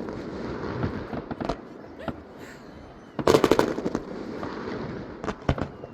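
Fireworks display: scattered sharp bangs, then a rapid cluster of crackling reports about three seconds in, and a couple more bangs near the end.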